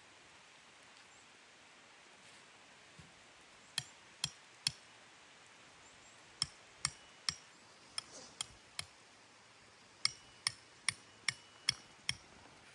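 Sharp hammer-like strikes, about two a second, in runs of three and then six with short pauses between. Some strikes ring briefly, as of metal being hit.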